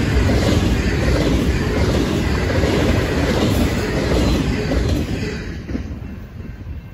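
Double-stack intermodal container cars of a freight train rolling past, steel wheels rumbling on the rails. The end of the train goes by about five seconds in and the noise fades away quickly.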